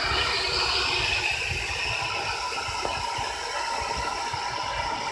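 Steady rush of water through a rain gutter as the soil built up in it is flushed out.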